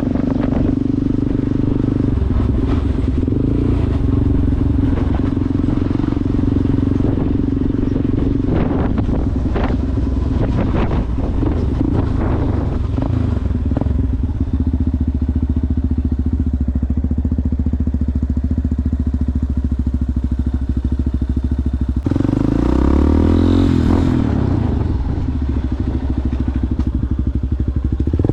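Yamaha Ténéré motorcycle with an aftermarket Coyote exhaust running off-road at steady revs, with clattering knocks over the first half. About three-quarters of the way through, the revs rise and fall several times.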